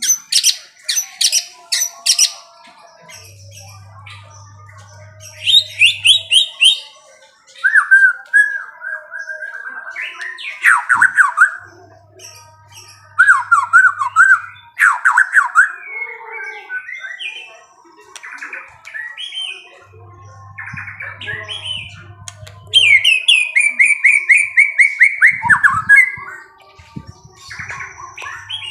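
Songbird singing loud, varied phrases of rapid chirps and trills, with short pauses between the phrases.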